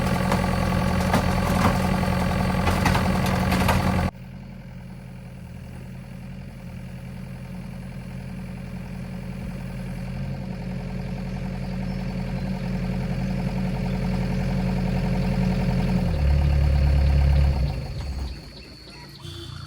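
Construction machine engine running loudly. It cuts abruptly to a quieter engine sound about four seconds in, which slowly grows louder, swells into a louder low rumble near the end, then dies away.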